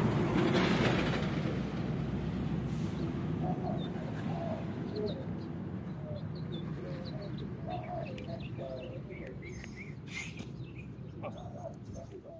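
Birds chirping and calling over a broad rushing noise that is loudest at the start and slowly fades away.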